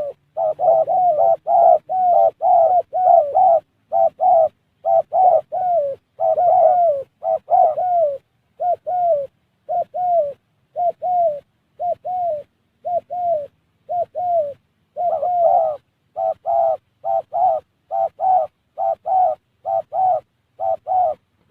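Spotted dove cooing: a long run of short, falling coo notes, about two to three a second.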